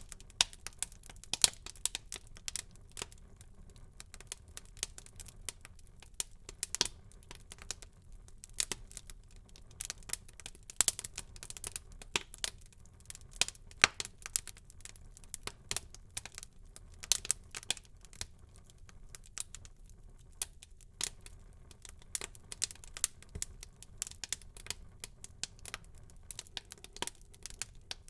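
Wood fire burning in a fireplace, crackling with irregular sharp pops and snaps over a low, steady rumble.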